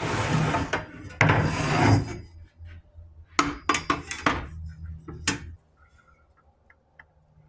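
A sliding compound miter saw and its parts being handled: two stretches of scraping and rubbing in the first two seconds, then a string of sharp clacks of hard parts knocking together, and quiet in the last couple of seconds.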